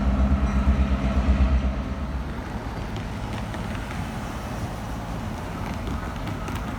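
Freight diesel locomotive engines running in a low rumble as the train passes, easing off about two seconds in to a steadier, quieter rolling noise.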